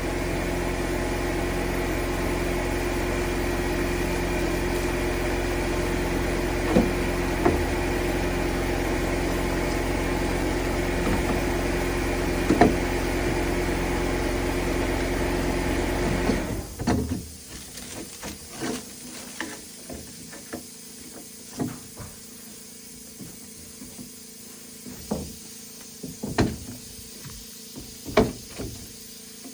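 A motor runs steadily with an even hum, then cuts off about two-thirds of the way in. After it stops, there are scattered knocks and clicks of things being handled.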